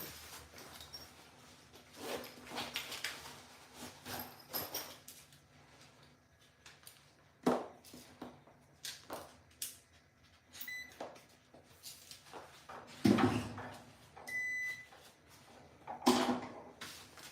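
Scattered clicks, knocks and rustles of parts and tools being handled on an appliance, with two short high beeps in the second half.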